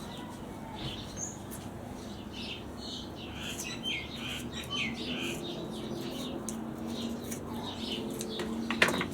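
Small birds chirping over and over in the background, with a low steady hum in the second half and a single sharp click or knock near the end.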